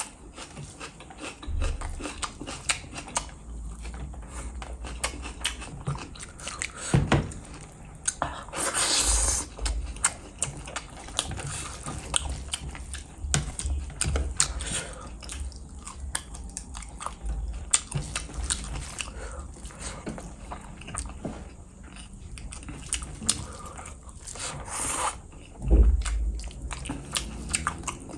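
Close-up eating sounds of a person chewing fish curry and rice eaten by hand: a steady run of small wet mouth clicks and smacks. There are two longer hissing sounds, about nine seconds in and near the end.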